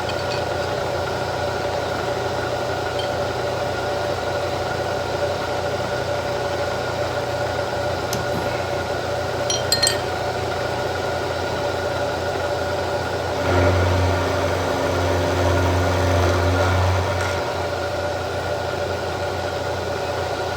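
Milling machine running steadily while cutting flats on all four sides of the end of a control rod. There are a few light clicks a little before the middle, and a louder, deeper hum for about three seconds just after the middle.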